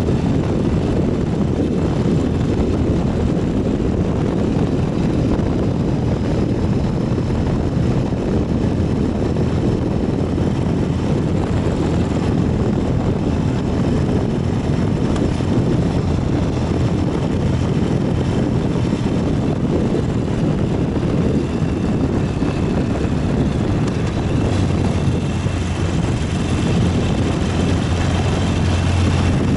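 Ural 750 motorcycle's flat-twin engine running steadily at road speed while riding, with a heavy low rumble of wind on the microphone.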